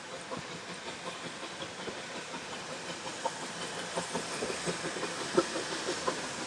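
Puffing Billy narrow-gauge steam train running, with a steady hiss of steam and quick, uneven clicks and knocks from the wheels and cars, growing busier and a little louder in the second half.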